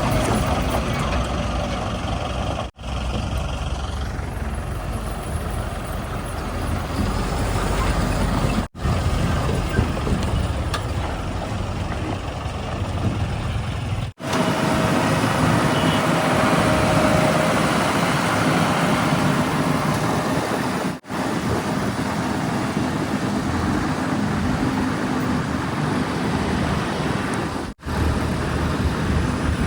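Heavy diesel machinery engines running steadily. The sound is made of several short clips, each joined by an abrupt cut with a momentary dropout.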